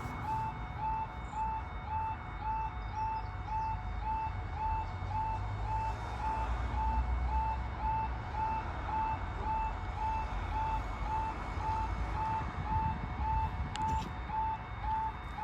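Level crossing audible warning alarm sounding: a short, high electronic beep repeating about two and a half times a second, the signal that the crossing's warning is active, over a steady low rumble.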